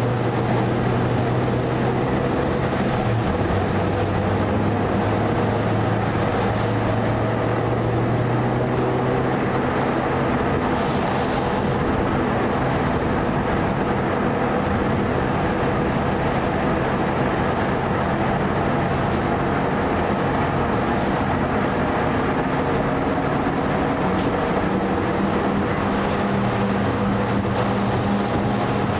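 Mitsubishi Lancer Evo IV's turbocharged four-cylinder engine running hard, heard from inside the cabin, with constant road noise underneath. The engine pitch shifts down about three seconds in and changes again near the end.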